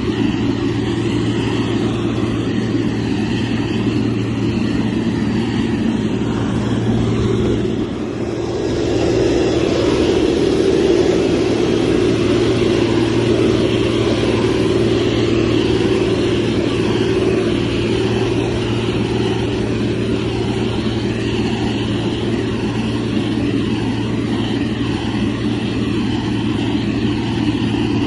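Diesel engine of a heavy road-construction machine running steadily under work. It dips briefly about eight seconds in, then comes back a little louder.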